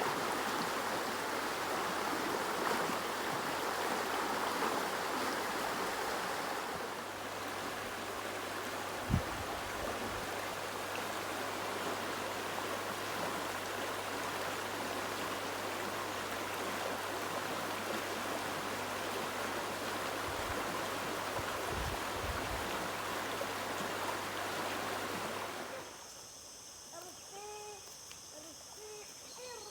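River water rushing steadily over rocks, with a few dull low thuds. About four seconds before the end the water sound cuts off and gives way to quieter birds chirping over a steady high insect buzz.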